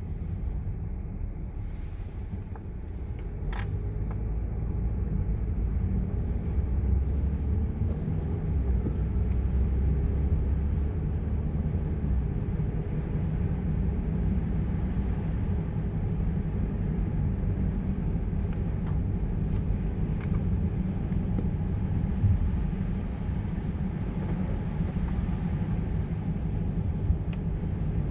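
A car driving on a snowy road: steady low engine and tyre rumble, with a couple of brief knocks late on.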